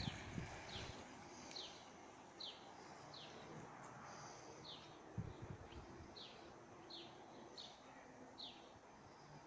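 A bird calling over and over, a short falling chirp roughly once a second, faint against quiet outdoor background. A couple of low thumps about five seconds in.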